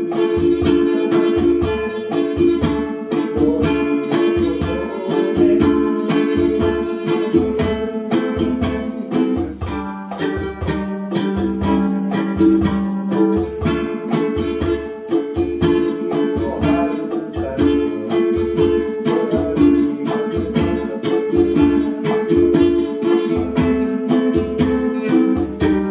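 A ukulele playing a melody over an accompaniment with held notes and a steady low beat, about two beats a second.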